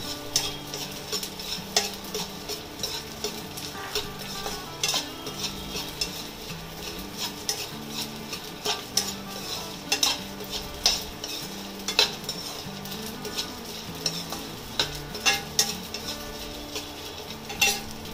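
Gond (edible gum) frying in hot ghee in a kadhai, sizzling steadily as the pieces puff up. A metal slotted spoon stirs them, with frequent sharp taps and scrapes against the pan.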